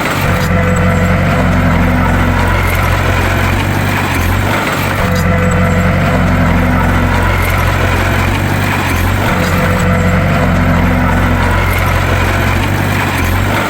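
Bulldozer engine running steadily, with a brief shift in the sound about every four to five seconds.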